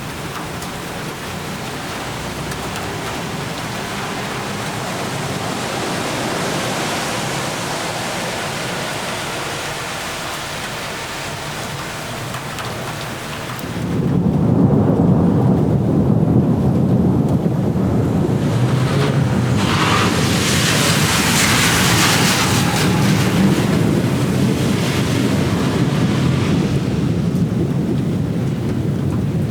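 Steady heavy rain, joined about halfway through by a long, low rumble of thunder that rises suddenly and keeps rolling under the rain until the end.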